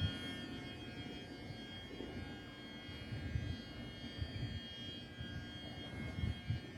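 Electric train at a station: a steady high electrical whine over a low rumble, with irregular low thumps in the second half.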